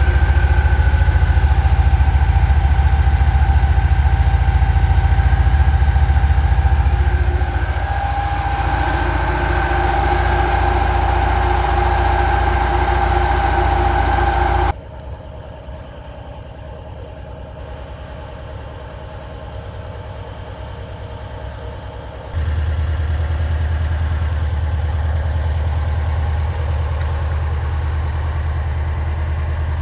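ZAZ 968M's air-cooled V4 engine idling steadily after a cold start. The sound drops abruptly to a much duller, quieter level about halfway through and comes back up a few seconds later.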